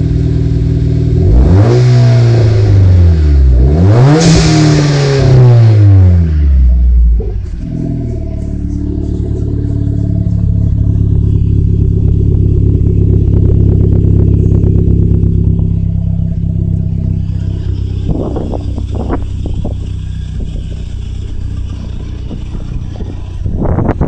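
Dodge Caliber SRT-4's turbocharged four-cylinder engine through an MPX single exhaust, revved twice and then settling into a steady idle. A few light knocks near the end.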